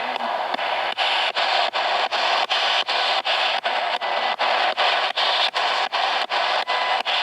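Spirit box radio sweeping through stations: a steady hiss of static, broken by brief dropouts about three times a second as it jumps from station to station.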